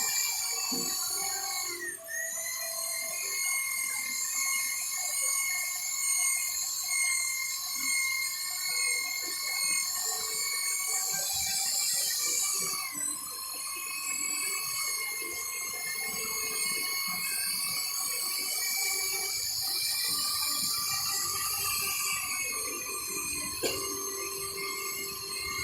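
Electric polishing machine running steadily with a high whine, its pitch dipping briefly about two seconds in and again around halfway, as the pad is pressed onto the glass.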